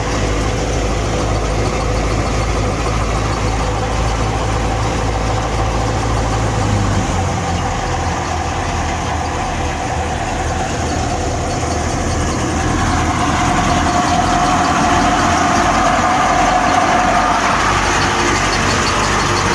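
Fiat 480 tractor's diesel engine running steadily while powering a wheat thresher, the threshing machinery adding a continuous hum. The low engine note changes about seven seconds in, and the higher hum grows a little louder in the second half.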